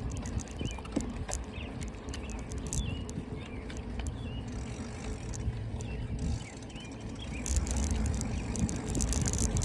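Riding a bicycle: wind buffeting the microphone and tyre rumble, with scattered clicks and rattles from the bike and a few short high chirps. The rushing gets louder about three quarters of the way through.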